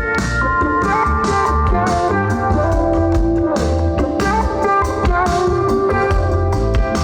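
Live band playing an instrumental passage, with electric guitar over drums and a pulsing low bass line.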